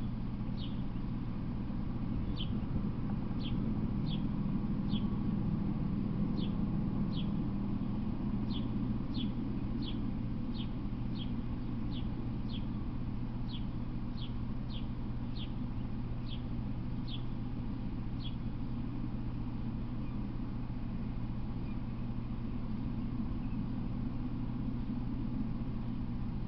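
A bird calls in short high chirps, a little more than one a second, stopping about two-thirds of the way through, over a steady low hum and rumble.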